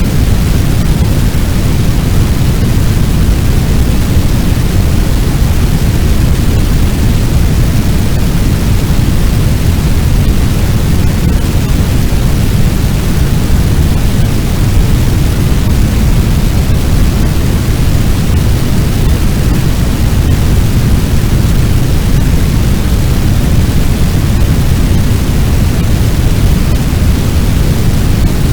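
Sound effect of a large fire: a loud, steady roar of rumbling noise, weighted to the low end, with no distinct crackles or bangs.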